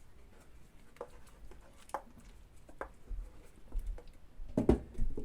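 Scattered light knocks and clicks of pan and utensil handling on a stove, about one a second, with a louder dull knock near the end.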